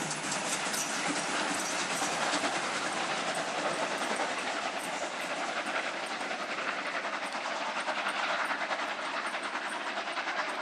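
Train rolling past at speed, its wheels clattering steadily over the rail joints.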